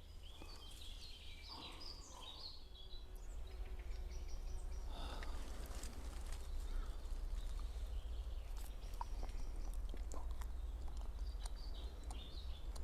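Faint woodland ambience: a steady low wind rumble on the microphone, with small birds chirping now and then and a few soft clicks and rustles.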